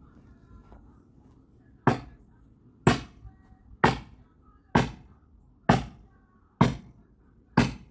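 A steady series of sharp strikes, about one a second, starting about two seconds in: seven blows in all, each dying away quickly.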